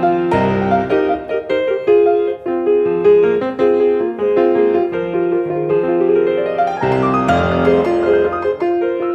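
Solo piano being played: a flowing passage of notes, then a quick rising run that lands on a loud chord with a deep bass note about seven seconds in.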